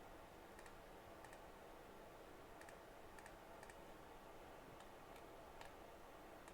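Faint, scattered clicks of a computer mouse and keys being worked, some in quick pairs, over a near-silent room.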